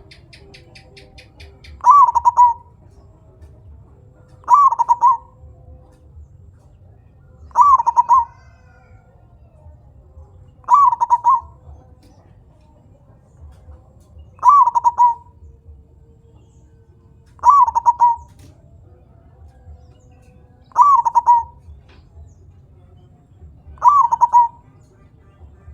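Zebra dove (perkutut) singing its cooing song: a short run of quick notes ending in a deep 'kung', repeated about every three seconds, eight times.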